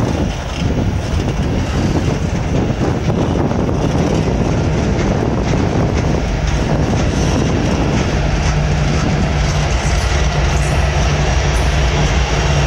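BNSF freight train passing close by: open hopper cars rolling past, then diesel-electric locomotives coming alongside. A steady low engine drone rises over the rumble of wheels on rail about two-thirds of the way in.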